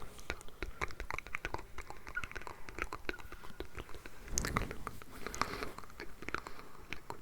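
Layered ASMR mouth sounds close to the microphone: many quick, irregular wet clicks and smacks of the lips and tongue, with a breathy rush about four and a half seconds in.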